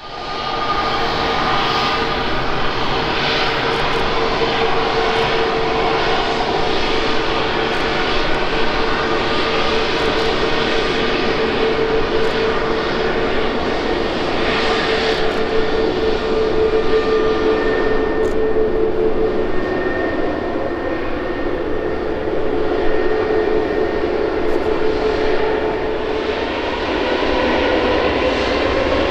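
Airbus A320neo's CFM LEAP-1A turbofan engines running loud: a steady rush with a whine held on one pitch, and a second whine rising in pitch near the end.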